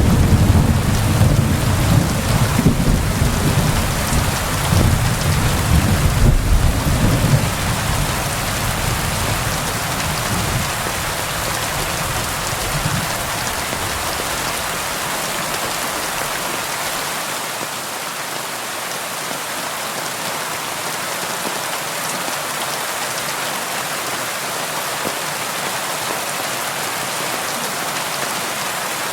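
Steady rain falling on window glass, with a low rumble of thunder that dies away about halfway through.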